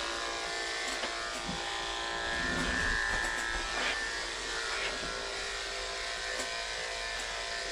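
Andis electric pet clippers running with a steady hum while shaving matted fur off a cat.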